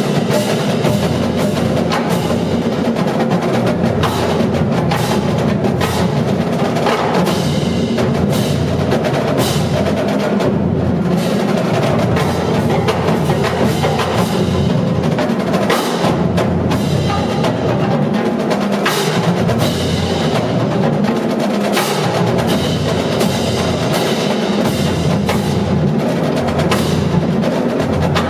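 A marching drumline playing: drums struck in fast, dense rhythmic patterns with sharp stick strokes, continuing without a break.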